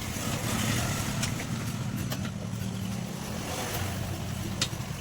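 A motor vehicle engine running steadily, with a few sharp clicks over it.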